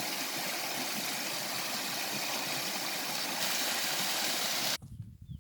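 Steady rush of falling water from a waterfall, which cuts off abruptly near the end, leaving quieter scattered clicks.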